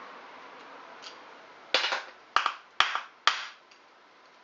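Four sharp hammer blows about half a second apart, each ringing briefly, struck while working on a Honda SL125 engine.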